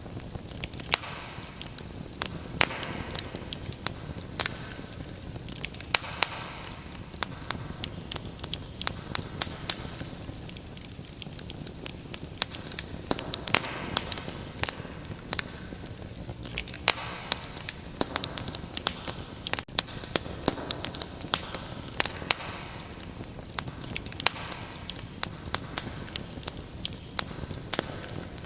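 Fireplace fire crackling, with frequent irregular sharp pops and snaps over a soft, steady low rumble.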